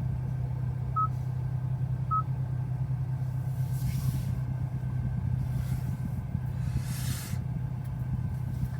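Steady low hum of the Hyundai i20N's 1.6-litre turbo engine idling, heard from inside the cabin. Two short touchscreen beeps from the infotainment system sound about one and two seconds in, with a few soft swells of passing traffic later on.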